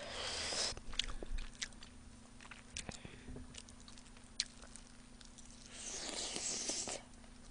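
Close-miked eating of sauce-coated fried chicken: small wet mouth clicks and chewing, then a bite into the drumstick near the end.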